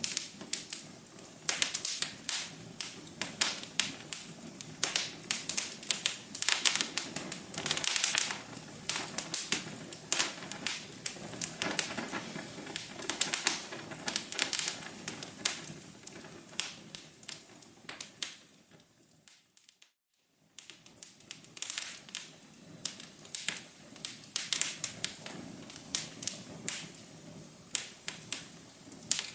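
Wood fire crackling in a fireplace: dense, irregular pops and snaps over a soft hiss. About two-thirds of the way through it fades out to near silence for about a second, then comes back.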